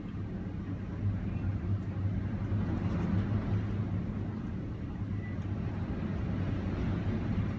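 Strong wind buffeting the microphone: a low rumble that swells and eases without a break.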